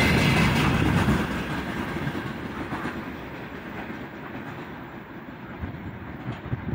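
Freight train's wagons rolling away on the rails, the sound fading steadily into a faint low rumble over the first few seconds as the tail of the train recedes.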